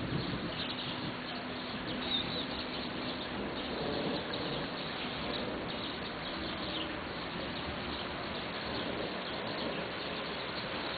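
Small birds chirping and calling now and then over a steady outdoor hiss.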